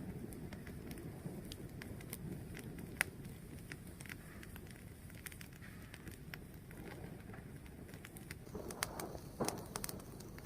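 A fire burning and crackling: a steady low rush with scattered sharp pops, the sharpest about three seconds in and a cluster of louder pops near the end.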